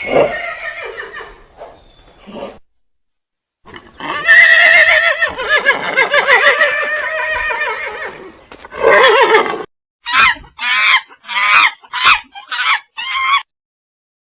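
Animal calls: one long wavering call lasting about four seconds, a shorter call, then six short calls in quick succession.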